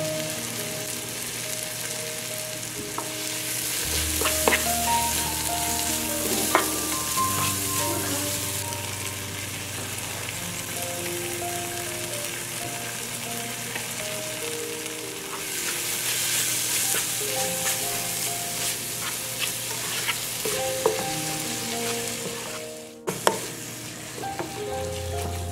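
Chopped onions and tomatoes sizzling in oil in a nonstick pan, stirred with a plastic spatula that gives scattered clicks and scrapes against the pan. Background music runs underneath, and the sound breaks off for a moment near the end.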